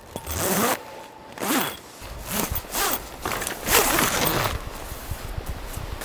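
A zipper, most likely on the awning tent, pulled in about five short rasping strokes over the first four and a half seconds.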